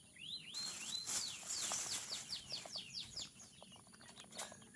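Young quail chicks, about three weeks old, peeping: a rapid run of high, short, falling chirps.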